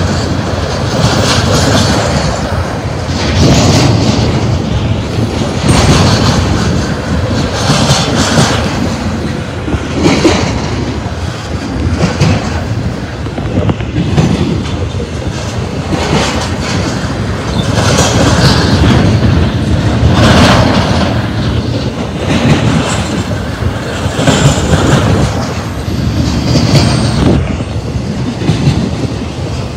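BNSF intermodal freight cars rolling past, their steel wheels clacking over the rail joints. The noise swells every two seconds or so as the cars go by.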